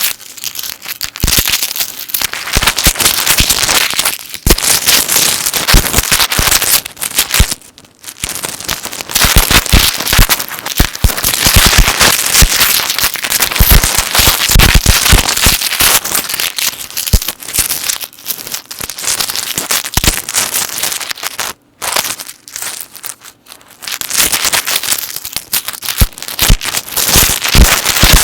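Metal chain necklaces handled and moved close to the microphone: a dense, continuous jingling and clinking of chain links, with a couple of brief pauses.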